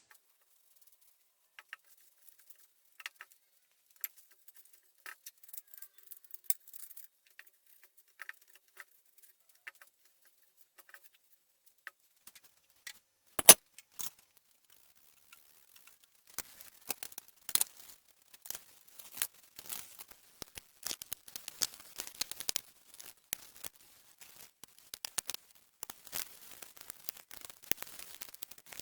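Light clicks and clinks of small hardware being handled: scattered at first, with one sharp knock about halfway through, then a busy run of clinking through the second half.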